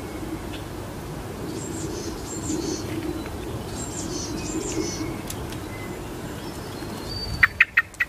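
Bird calls: faint high chirps twice in the first half, then four short, loud, sharp calls in quick succession near the end, over a steady low rumble.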